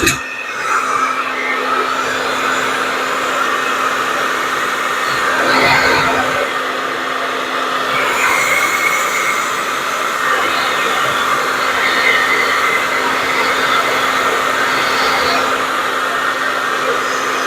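Handheld blow dryer running continuously, a steady motor hum under a rush of air with small swells in level, blowing wet acrylic pour paint across a ceramic slate.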